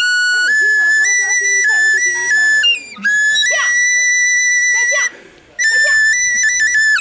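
A small high-pitched short flute playing a simple melody of held notes that step up and down in pitch, with two brief breaks for breath, one about three seconds in and one a little after five seconds.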